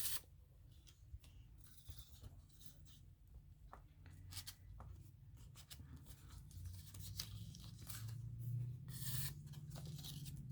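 Paper rustling and crinkling in short, scattered bursts, with small clicks, as cut-out paper pieces are handled and moved about. A faint low hum runs underneath.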